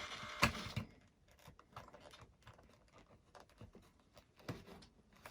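A steady electric buzz cuts off with a click just under a second in, followed by quiet, scattered light clicks and taps, like keys or small parts being handled.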